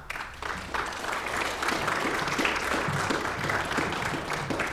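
Audience applauding: a dense crowd of handclaps that swells after the first second and tapers off near the end.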